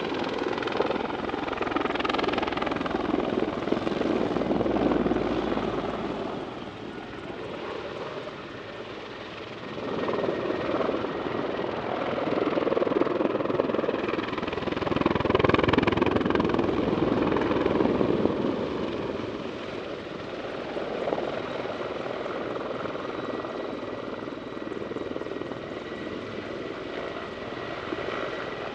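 Mil Mi-24 Hind attack helicopter's rotors and twin turboshaft engines running at display power, swelling and fading as it manoeuvres. It is loudest twice: a few seconds in, and again just past the middle.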